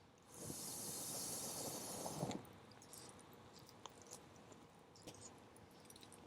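Wood campfire with scattered small crackles and pops. For about two seconds near the start a loud hiss with a low rumble beneath it swells in and cuts off suddenly.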